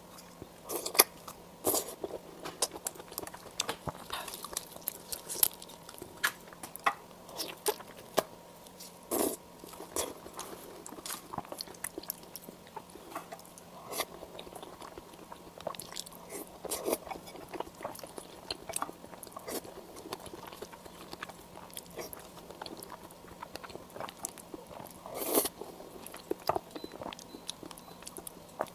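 Close-miked eating of shrimp: crisp bites and chewing with many small, irregular crackles, and a few louder crunches.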